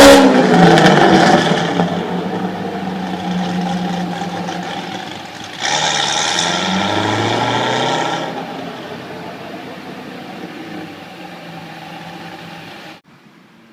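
Corvette C6 Z06's 7.0-litre V8 through a Corsa Sport exhaust, its note fading as the car pulls away. The note jumps suddenly louder about halfway through for a couple of seconds, fades again, and cuts off abruptly near the end.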